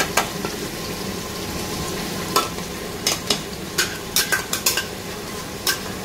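Mutton and tomato masala sizzling in an open pressure cooker as a spoon stirs it, the spoon clinking and scraping against the metal pot about nine times.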